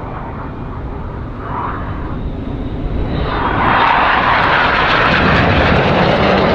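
BAE Hawk jets flying past, a rushing jet noise that swells sharply about three seconds in and stays loud.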